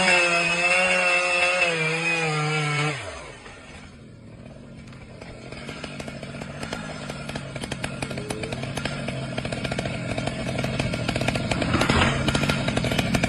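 A small engine running at high revs, like a chainsaw; its pitch drops about three seconds in, then it keeps buzzing and grows steadily louder toward the end.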